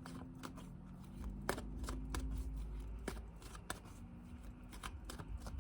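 Tarot cards being shuffled and handled by hand: soft, irregularly spaced card flicks and taps.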